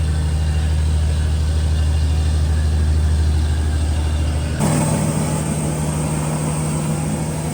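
Fishing boat's engine running steadily with a deep, even hum. About four and a half seconds in, the sound changes abruptly to a higher, lighter hum.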